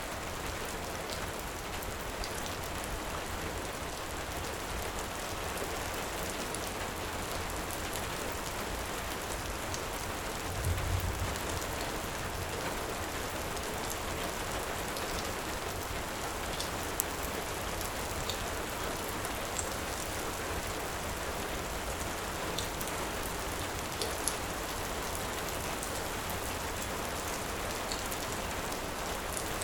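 Heavy rain falling steadily, with scattered faint sharp crackles from a wood fire and one brief low rumble about a third of the way in.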